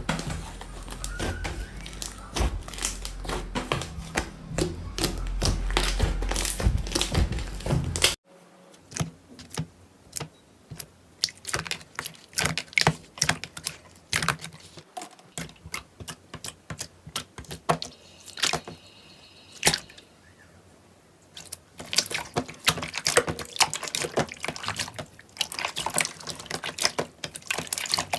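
Slime being squeezed and poked, a rapid crackle of small clicks and pops. About eight seconds in it cuts suddenly to sparser, quieter clicks, and from about 21 seconds the crackling is dense again.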